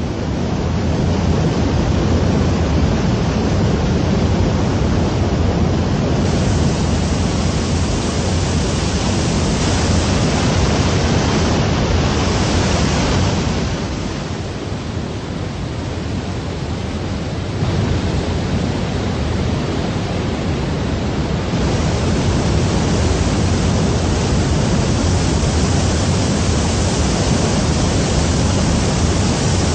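Waterfall: a loud, steady rush of falling water. Its level and brightness shift a few times, with a dip about halfway through.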